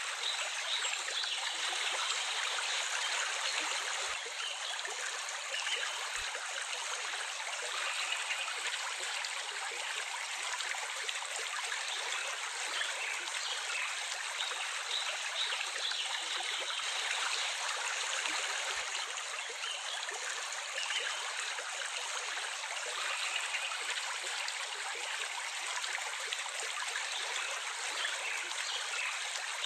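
Stream water running with a steady, even rush.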